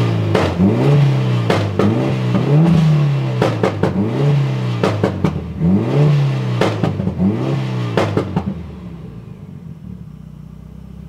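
Turbocharged Mitsubishi 4B11 four-cylinder in a Lancer revved in quick blips about every second and a half, with sharp exhaust pops and bangs cracking between the blips. The pops come from the shots programmed into the aftermarket ECU tune. About eight seconds in the revving stops and the engine settles to a steady idle.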